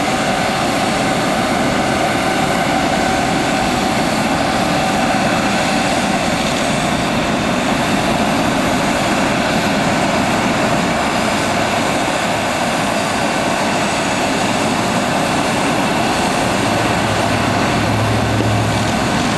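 Private jet's engines running: a steady rushing noise with a steady tone in it that fades out about six seconds in.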